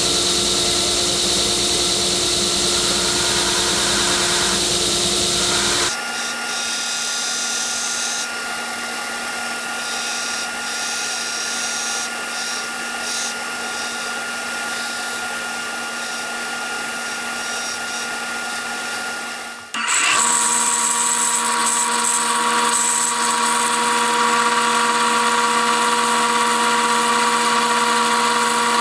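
Power tools running steadily with a whine, in three stretches that change abruptly about six and twenty seconds in.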